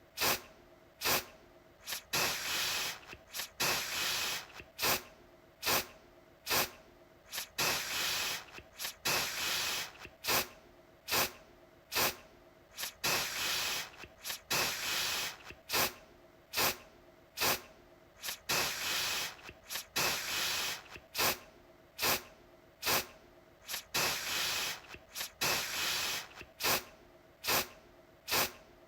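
Aerosol deodorant can spraying in short repeated bursts of hiss, about one a second, some brief puffs and some longer sprays of about half a second.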